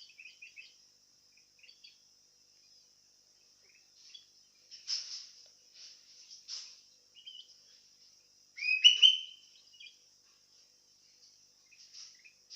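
Sooty-headed bulbul (kutilang) calling in short chirps. The loudest is a burst of rising notes about nine seconds in, over a steady high-pitched drone.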